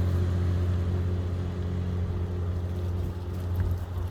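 A passing vehicle's engine running steadily with a low hum, slowly fading.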